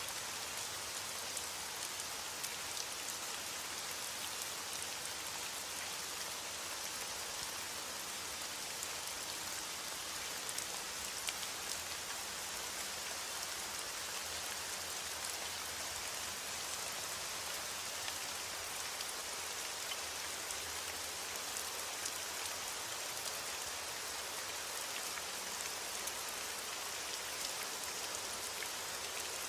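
Steady heavy rain falling against a window, an even hiss dotted with scattered small ticks.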